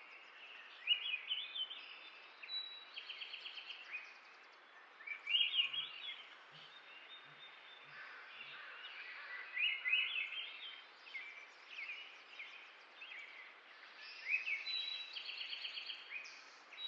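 Songbirds singing outdoors: short chirping phrases and quick trills repeat every few seconds over a steady background hiss.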